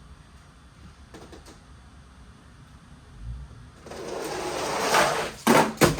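Toy monster trucks rolling fast down a plastic track, a rushing rattle that builds over about a second, then two sharp clacks as they land off the jumps.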